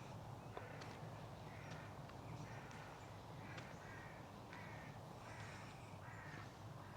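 A crow cawing faintly, a run of short harsh calls about once a second, with a few light clicks in between.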